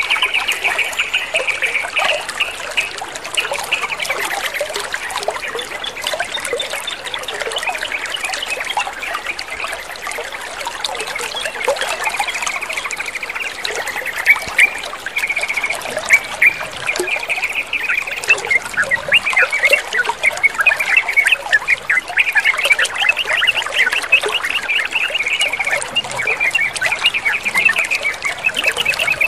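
Water trickling and splashing steadily, with a dense chorus of small birds chattering and trilling over it.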